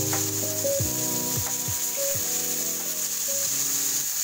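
Pork spare ribs and onion sizzling in a wok as they are stirred, with steady hissing, under background music.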